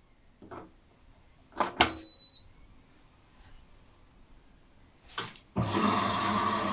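ATLANT 50U101 washing machine being started: a few clicks of its control panel and a short high beep, then about five and a half seconds in a steady rushing sound with a low hum cuts in sharply, the water inlet valve opening and water starting to fill the drum.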